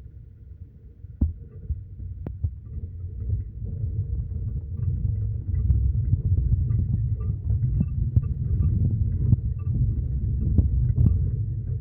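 Low, throbbing rumble of a moving road vehicle, growing louder a few seconds in, with a few sharp knocks.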